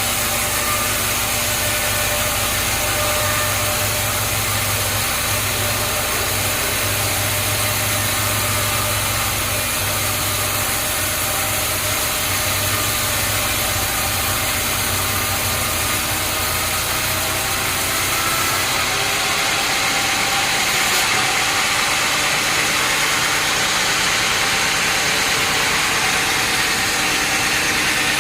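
Sawmill machinery running steadily, with a constant hum and several steady tones; about two-thirds of the way through the low hum drops away and the sound turns higher.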